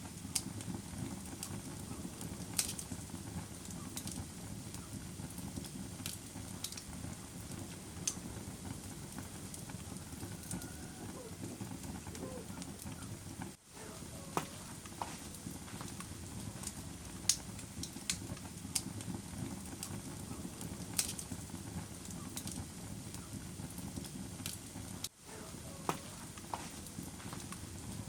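Wood fire crackling in a fireplace: a steady low rush of burning with scattered sharp pops. The sound drops out briefly twice, about halfway through and a few seconds before the end.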